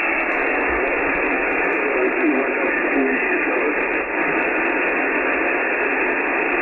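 Icom IC-9700 transceiver on 70 cm single-sideband putting out a steady, band-limited receiver hiss, with only faint wavering traces that come and go. The aircraft-reflected signal from the other station has faded into the noise.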